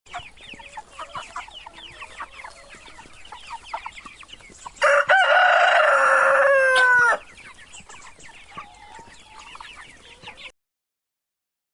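Chickens clucking with many short, quick calls, and about five seconds in a rooster crows once, a loud call of about two and a half seconds that drops in pitch at the end. The sound cuts off about a second before the end.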